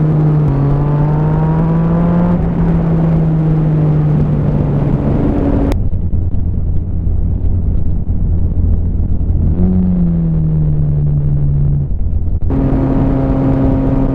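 Motorcycle engine with an aftermarket exhaust running under way at a fairly steady engine speed. About six seconds in the sound cuts to a duller, lower engine note that rises briefly and falls off. Near the end it cuts back to the first, brighter note.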